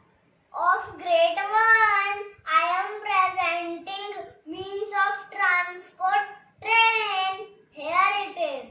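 A child singing alone without accompaniment, in short phrases separated by brief pauses.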